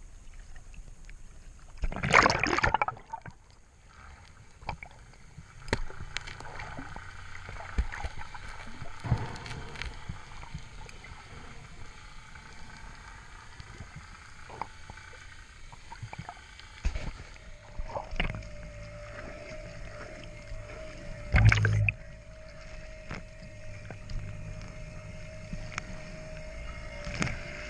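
Water sloshing around a small boat, with scattered knocks and two louder bumps, one about two seconds in and one near three quarters of the way through. A steady hum joins in past the midpoint and holds to the end.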